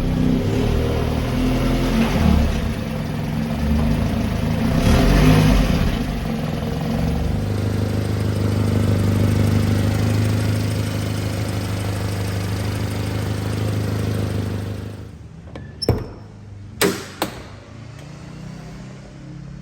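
1997 Subaru Sambar truck's 658 cc four-cylinder engine running, picking up twice in the first few seconds, then running steadily before dropping back quieter about fifteen seconds in. Near the end come three sharp clunks.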